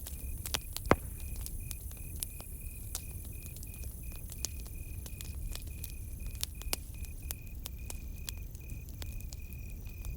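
Campfire crackling with irregular sharp pops, one much louder pop about a second in, over a low rumble. A cricket chirps steadily alongside, a high even pulse about three times a second.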